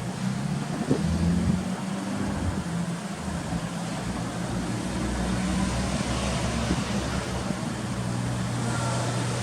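Toyota Mark X 250G's HKS-supercharged 2.5-litre V6 idling steadily with a low, even hum.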